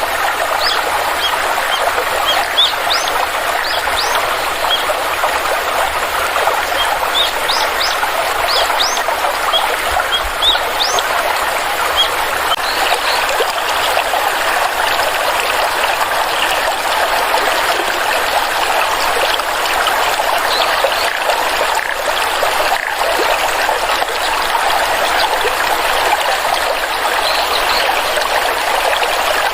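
Small stream trickling and flowing steadily over rocks. Short, high bird chirps come through it often in the first half and again briefly near the end.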